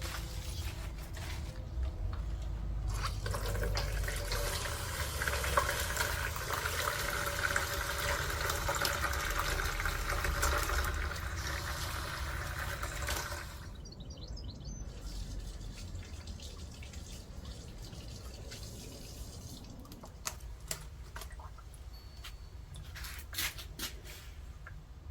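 Water pouring steadily for about ten seconds, then stopping; a few light clicks and knocks follow.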